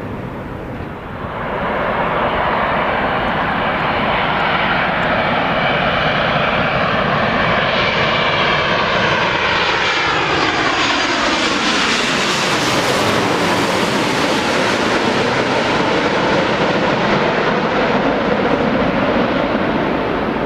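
Heavy jet airliner's engines passing low overhead on landing approach. The engine noise swells about two seconds in, its whine falls in pitch as the aircraft goes by about two thirds of the way through, and a steady rumble follows.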